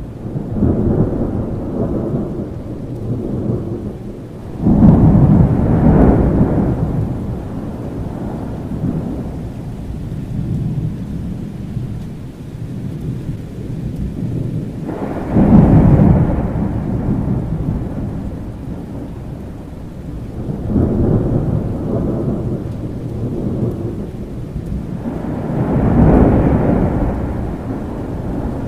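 Thunderstorm: steady rain under rolling thunder that swells up five times. The two loudest rolls break in suddenly, about five seconds in and again about fifteen seconds in.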